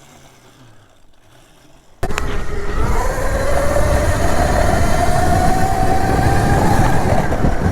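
Electric dirt bike motor whining under throttle, its pitch slowly rising, over loud rumbling, rushing riding noise. It starts suddenly about two seconds in, after a quiet stretch.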